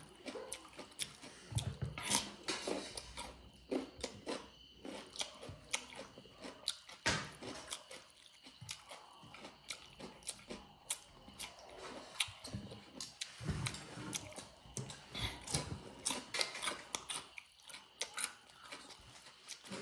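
A person eating chicken and cucumber: irregular chewing and biting with many short, sharp clicks.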